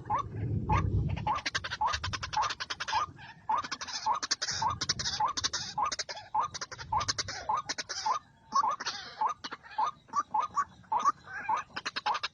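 White-breasted waterhen calling: a long run of short, rising croaking notes, about two to three a second, over a harsh rattling chatter. There is a low rumble in the first second.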